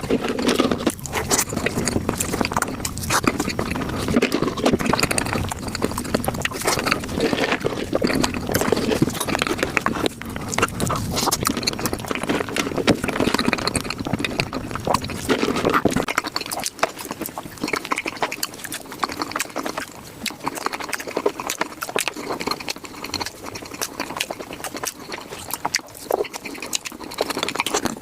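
Mukbang eating sounds sped up fivefold: a rapid, continuous chatter of wet chewing, smacking and mouth clicks close to the microphone. About sixteen seconds in the low background hum drops away as the sound changes to another clip.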